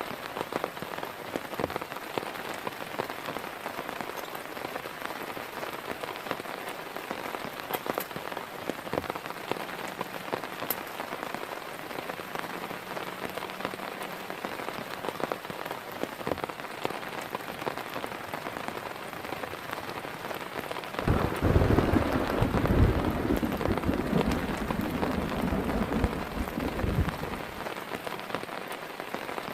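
Heavy rain falling steadily with scattered drop taps. About two-thirds of the way in, thunder breaks suddenly and rumbles for about six seconds before the rain alone carries on.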